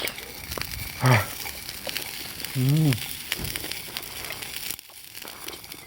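Food sizzling over a campfire, with a steady hiss and many sharp crackles and pops from the burning wood. A man makes two short wordless low voice sounds, about a second in and near the middle.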